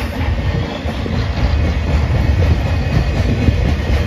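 BNSF intermodal train's loaded well cars rolling past, steel wheels on rail making a steady rumble.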